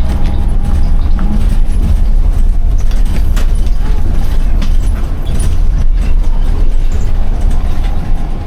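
Bus engine running with a loud, steady low rumble, heard from inside the bus, with scattered light rattles and clicks.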